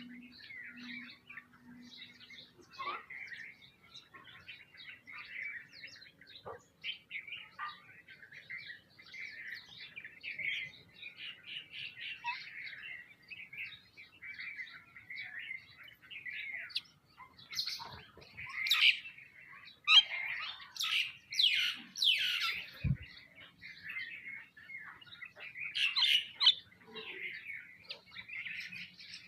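A flock of sparrows and other small birds chirping and twittering continuously, with louder, sharper calls from about 18 to 27 seconds in. A single soft thump comes about 23 seconds in.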